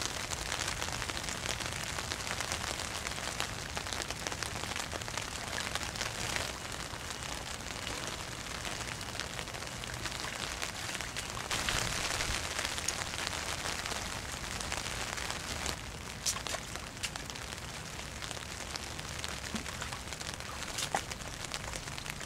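Rain falling on pond water and a plastic pond liner, with water sloshing as a person wades through it in boots and lowers a stone into the water about twelve seconds in; a few sharp knocks sound near the end.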